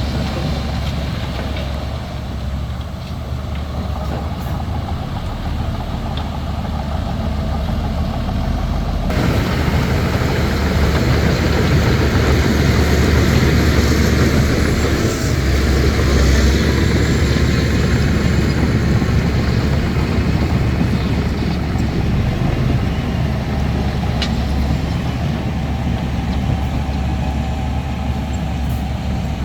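Heavy diesel earthmoving machinery running steadily, its engine getting louder and harder-working about nine seconds in.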